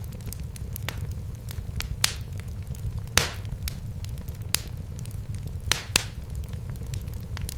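Wood fire crackling in a fireplace. Sharp pops and snaps come at irregular moments over a steady low rumble, and the loudest pop comes about three seconds in.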